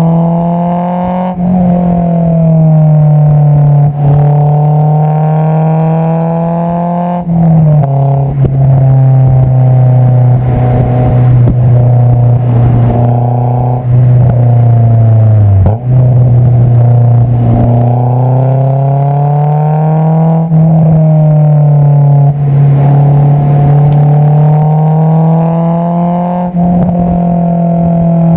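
Honda S2000's inline-four heard right at its Invidia Q300 aftermarket exhaust under way. The exhaust note rises and falls with the throttle, and its pitch drops suddenly at several gear changes.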